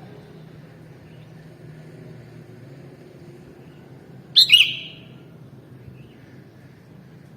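Sooty-headed bulbul (kutilang) giving one short, loud call about halfway through, over a steady low background hum.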